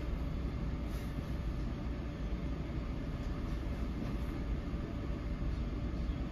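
Steady low rumble inside an NJ Transit Multilevel passenger coach rolling along the track: wheel and rail noise carried through the car body, with a faint steady hum.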